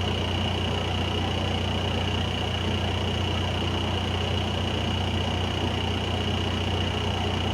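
Heavy-equipment engine running steadily at a constant speed, a low hum with a thin steady high whine above it.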